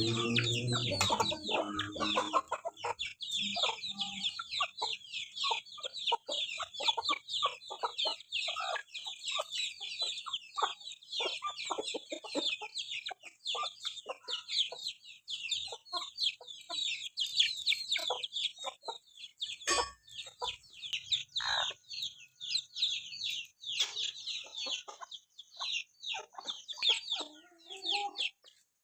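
Chickens clucking against a dense, continuous chatter of short, high chirping calls. Background music fades out in the first couple of seconds.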